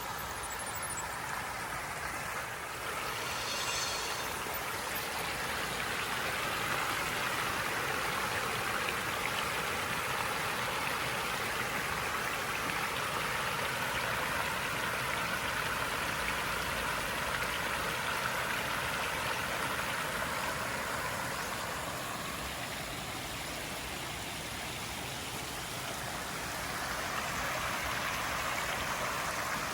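Waterfall: water rushing and splashing steadily, swelling a little and easing off again.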